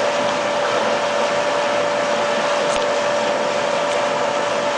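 Electric circulation pump of a homemade water-heating system running steadily, a constant motor whir with a fixed-pitch whine.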